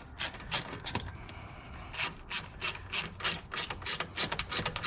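Hand socket ratchet clicking in quick, even strokes, about four clicks a second, as a small screw is run in and tightened.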